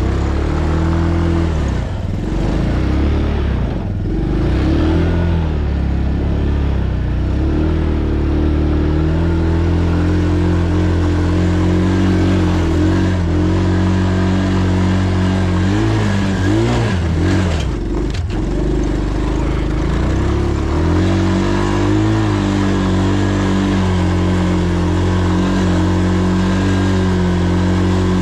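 Dirt bike engine running under way, steady for long stretches, with the pitch wavering up and down a little past the middle as the throttle changes.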